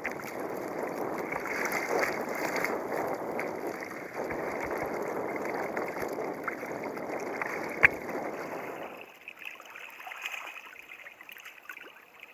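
Water rushing and splashing against the hull of a fishing kayak, with one sharp knock about eight seconds in; the water noise drops away a second later.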